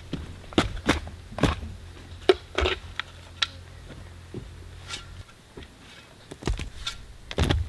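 Irregular sharp knocks and clicks, some with a short ring, over a low steady hum that stops about five seconds in.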